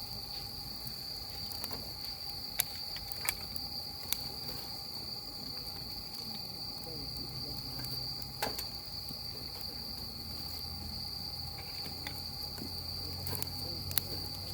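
Steady, high-pitched chirring of crickets, with a few sharp pops from a wood fire scattered through it.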